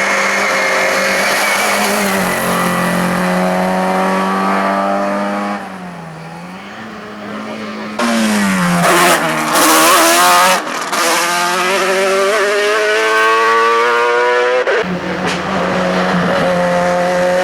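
Racing car engine revving hard, its pitch climbing and dropping back with each gear change. It dips quieter for a couple of seconds, then comes back louder about eight seconds in. A sharp crack comes near the end.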